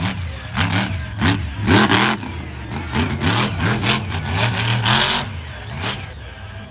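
Monster truck's supercharged big-block V8 revving hard and repeatedly, its pitch swooping up and down in quick blips, with several short noisy bursts over it, the loudest about two seconds in and about five seconds in.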